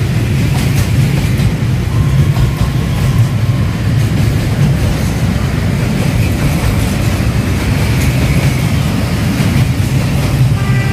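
A train running past close by: a steady, loud rumble of wheels and cars on the rails.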